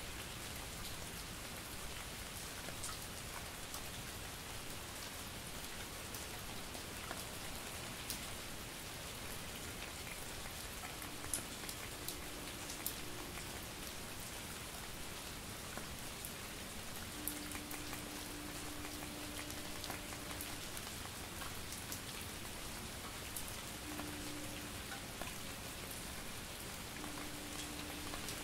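Steady light rain and drizzle falling, with individual drops ticking here and there. A faint low hum comes and goes in the second half.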